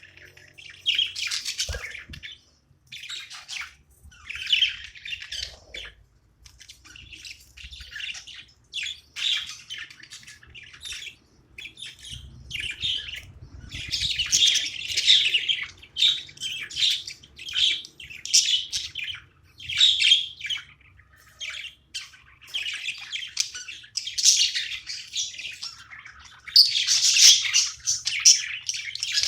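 Pet budgerigars chirping and chattering: a continuous run of short, quick high calls in clusters with brief pauses, with some louder squawks among them.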